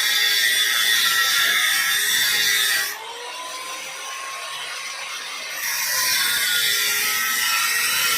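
Power tool running with a high, steady whine. It drops away about three seconds in and comes back up near six seconds.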